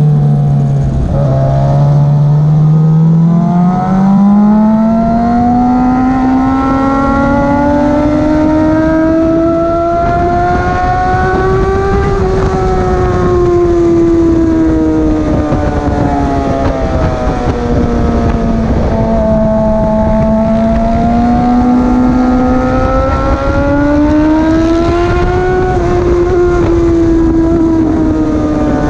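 Motorcycle engine running hard on a race circuit. Its pitch climbs steadily for about the first ten seconds, sinks to a low about two-thirds of the way through, then climbs again and eases off near the end. A heavy rumble of wind on the microphone runs underneath.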